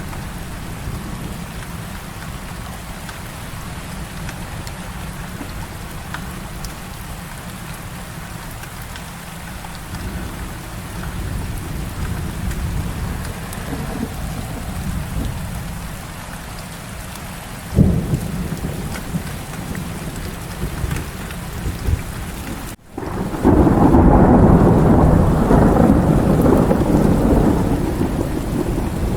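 Heavy rain falling steadily with low thunder rumbling. About two-thirds of the way through there is one sharp thunder crack. Soon after, the sound cuts out for a moment, and then a long, much louder roll of thunder runs to the end.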